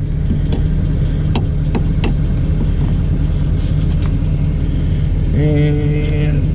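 A motor vehicle engine idling with a steady low rumble, with a few light clicks over it.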